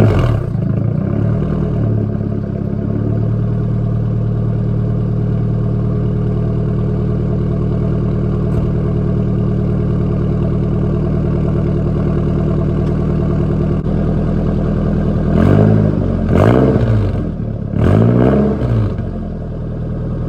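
Nissan 240SX four-cylinder engine running loud through a muffler delete with blast pipes, just after starting. It sits at a fast idle that drops to a steady lower idle about three seconds in, then is revved briefly three times near the end.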